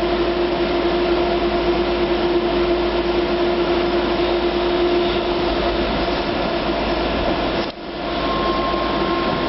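Steady hum and rumble inside a Docklands Light Railway train carriage, with a steady mid-pitched tone running through it. The sound drops out briefly about three-quarters of the way in, and a fainter, higher tone joins after that.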